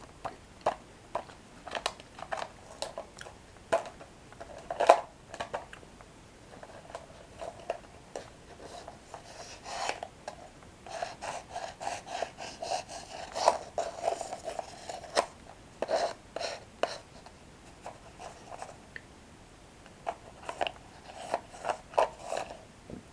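Close-up chewing of crunchy toasted breadsticks: a string of sharp, separate crunches, with denser runs of chewing in the middle and again near the end.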